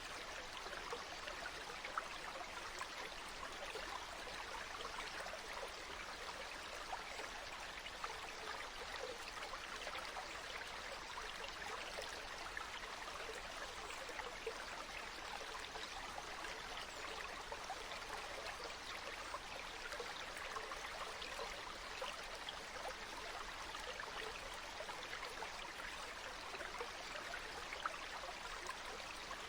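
Water flowing steadily in a stream, an even rushing and babbling.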